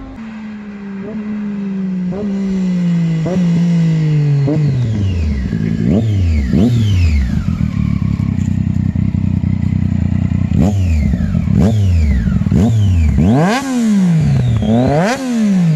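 Triumph Daytona 675R's inline-three engine breathing through a Yoshimura Alpha slip-on exhaust, run hard past the listener. Its pitch falls away at first, then climbs and drops over and over in quick sweeps, quickest near the end.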